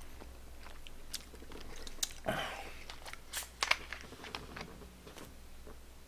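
Close-miked chewing of tteokbokki rice cakes and fish cake, with wet mouth sounds and scattered sharp clicks. A short hiss comes a little over two seconds in, and a quick run of clicks a second later.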